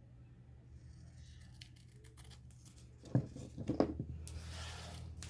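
Paper craft pieces handled on a table: two knocks a little past halfway, then about a second of papery tearing.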